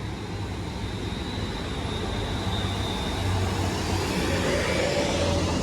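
Passenger multiple-unit train running past on the line: a steady low hum with a faint high whine, under wheel and running noise that builds to a peak near the end.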